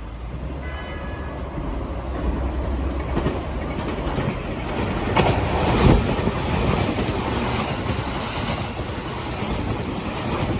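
A train passing on the rails, the rumble of its wheels getting louder toward the middle, with some clacking over the rail joints.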